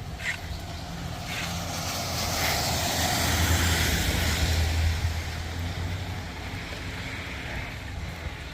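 A motor vehicle passing by, its engine hum and tyre noise swelling to a peak a few seconds in and then fading away.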